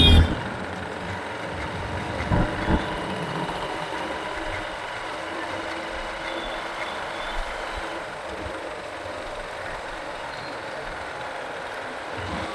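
Steady road traffic noise heard from a moving motorbike, with vehicle engines running. A high beeping tone cuts off right at the start, and two short, louder sounds come about two and a half seconds in.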